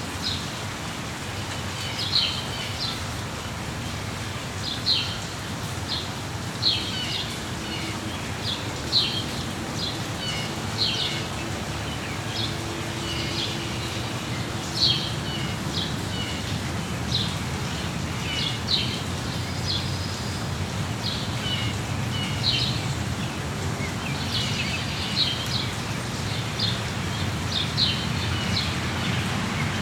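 Songbirds chirping, short high calls repeating every second or two, over the steady hiss of falling rain.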